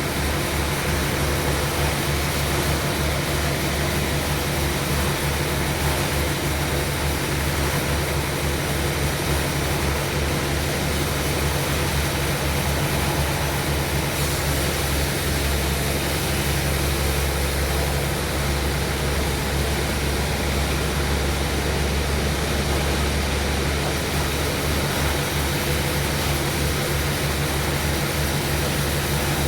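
Sawmill machinery running steadily: a loud, even engine drone with a fast low flutter and a broad hiss over it, unchanging throughout.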